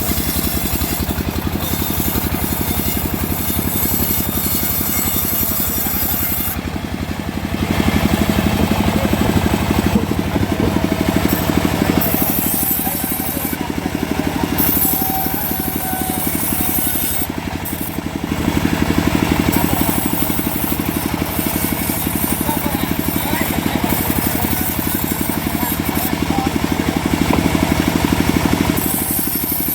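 A homemade sawmill cutting mahogany: a steady mechanical drone with a rasping cut through the wood, swelling louder in three stretches.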